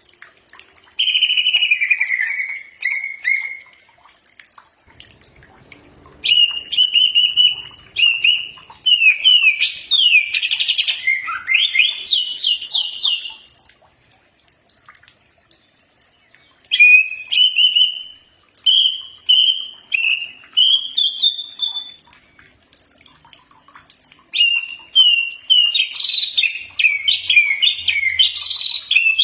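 Greater green leafbird (cucak ijo) singing in four bouts of varied whistled phrases and rapid trills, with short pauses between them.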